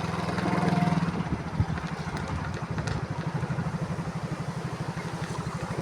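Motorcycle engine running with a steady, rapid low exhaust pulse, a little louder for about a second near the start.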